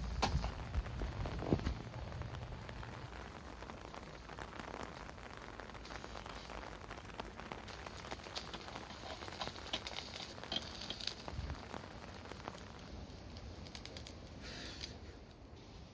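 Steady heavy rain with many scattered drops ticking sharply, pattering on a surface. A low hum underneath fades out in the first few seconds.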